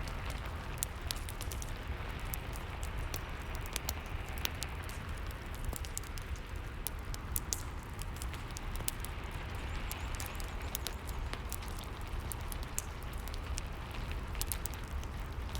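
Rain and a wood fire crackling together: a steady rain hiss and low rumble, with frequent sharp pops and snaps from the burning wood scattered irregularly throughout.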